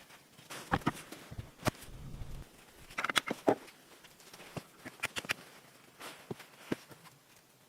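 Irregular light knocks and clicks, some in quick clusters of two or three, with short gaps between them.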